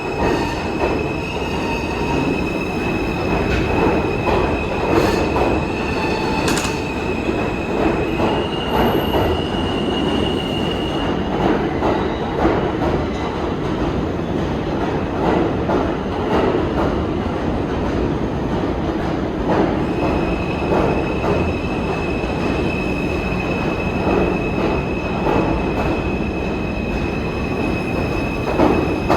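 New York City subway train running over the rails with a steady rumble and rattling wheel clicks. A high, steady wheel squeal sits over it for the first eight seconds and rises a little in pitch briefly. The squeal drops out midway and comes back about twenty seconds in.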